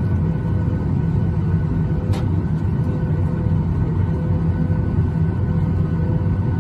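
Steady low rumble inside the cabin of a Lynx Air Boeing 737, with a few faint steady tones above it. A faint tick about two seconds in.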